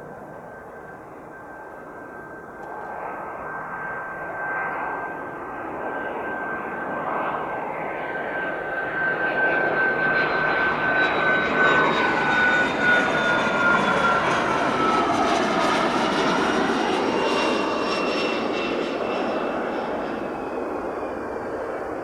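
Learjet 45 with twin Honeywell TFE731 turbofans passing close by as it lands. Its whine grows louder to a peak about halfway through, drops in pitch as the jet goes past, then fades.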